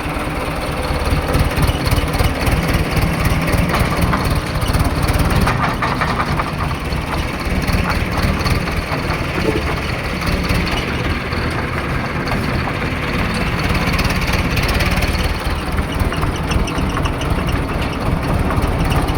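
Mahindra Arjun tractor's diesel engine running with a steady low chug, getting a little louder about a second in.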